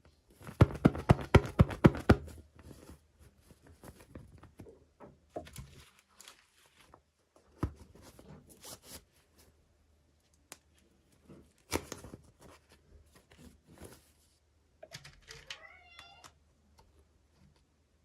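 Small plastic toy packaging handled during unboxing: a quick run of loud clicking rattles, then scattered rustling and tapping. About fifteen seconds in comes a short rising cat meow.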